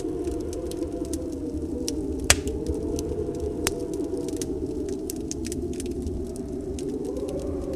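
Wood fire crackling with scattered small pops and one sharp pop about two seconds in, over a steady storm wind with a faint wavering whistle.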